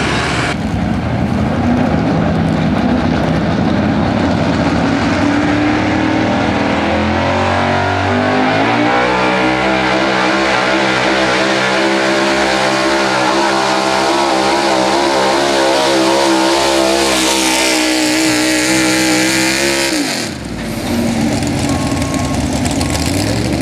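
Pulling truck's engine at full throttle during a 4x4 truck pull: revs climb, hold high and steady for about eleven seconds, then drop off sharply about twenty seconds in as the throttle is let off. A lower engine note follows and starts to rise again near the end.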